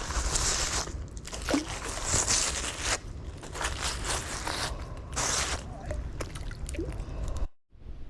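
Handling noise from magnet fishing at the water's edge: irregular bursts of scraping and crunching with trickling water, and scattered clicks. The sound cuts off abruptly near the end.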